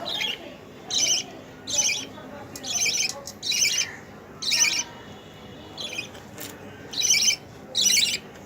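Pet lovebirds giving short, shrill, harsh squawking calls, about ten of them at roughly one a second.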